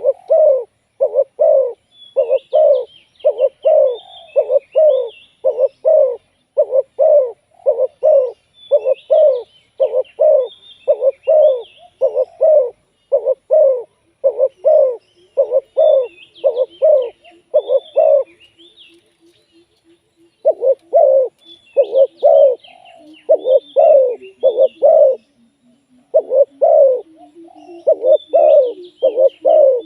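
Spotted doves cooing: a long run of rapid, repeated coos, about two a second, broken by a short pause about two-thirds of the way through. Softer, lower coo notes come in during the pause and again near the end. Small birds chirp faintly and higher behind them.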